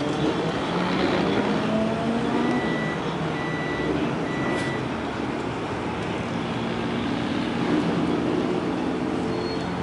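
Several cars lapping a race circuit, their engines running at speed and sliding up and down in pitch as they go round, over a steady noisy rush. Three short, evenly spaced high beeps sound from about two and a half seconds in.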